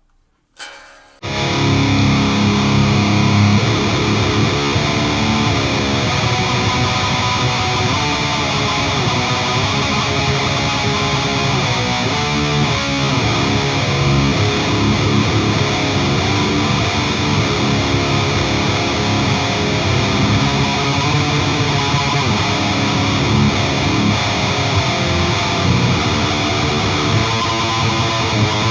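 Electric guitar played through an Engl Savage 120 Mark II tube amp's lead channel with a Lone Wolf Audio Left Hand Wrath HM2-style distortion pedal engaged: heavily distorted playing that starts about a second in.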